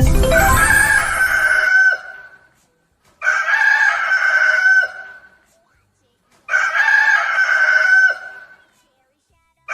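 Elephant trumpeting three times, each call about two seconds long with a pause between.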